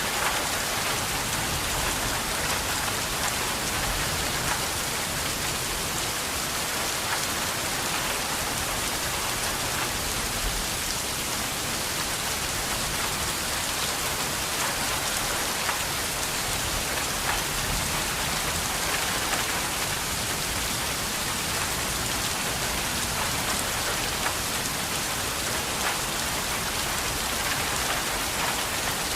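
Steady heavy rain falling on a surface, a constant hiss without breaks.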